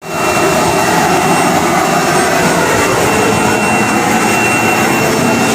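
Industrial vacuum cleaner running: a loud, steady rush of air with a thin high whine over it.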